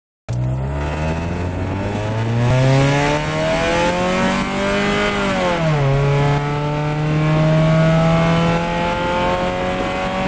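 Straight-piped 2002 Honda CR-V's four-cylinder engine accelerating hard, heard from inside the cabin: the exhaust note rises steadily, drops sharply at an upshift about halfway through, then climbs again in the next gear. The sound cuts in suddenly after a brief dropout at the start.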